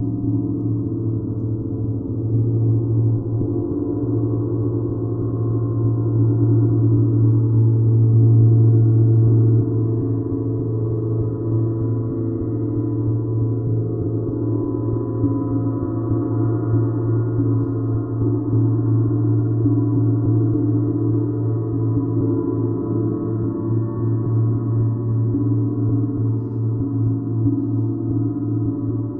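Gong played continuously in a long, sustained low drone of many overlapping tones. It swells to its loudest and then eases back about nine seconds in.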